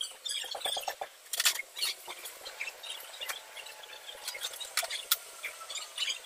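Scattered light clicks and taps of hand tools and small metal parts being handled, with a quick run of ticks about half a second in.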